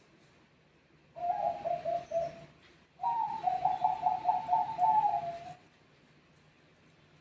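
Zebra dove (perkutut Bangkok) cooing: a short phrase of quick, pulsed coos about a second in, then a longer, rapid run of coos in two alternating pitches that ends a little past halfway.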